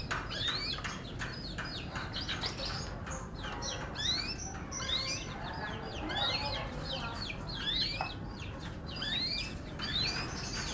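F1 canary singing: a continuous run of quick, short rising notes, several a second, without a break.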